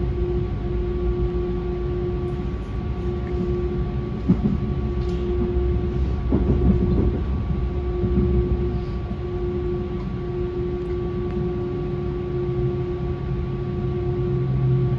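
S-Bahn electric train running: a steady low rumble with a constant hum over it, and a short sharp knock about four seconds in.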